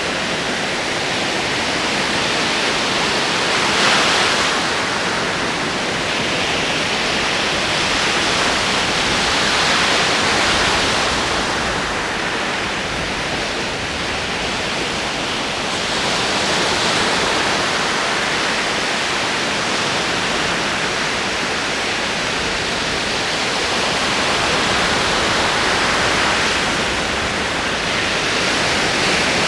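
Ocean waves rolling in: a steady rush of surf that swells four times as waves break and wash up, every six to nine seconds.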